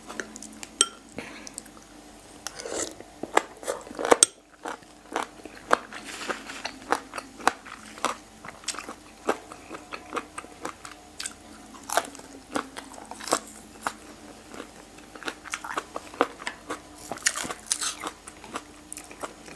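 Close-miked crunching and chewing of boiled pig's ear with fresh Thai basil and spring onion, irregular crisp crunches with a few louder bites, the loudest about four seconds in.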